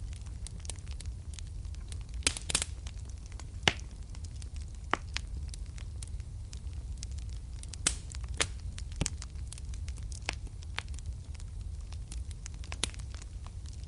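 Wood fire burning in a fireplace, crackling with sharp irregular pops, a few louder snaps standing out, over a steady low rumble of the flames.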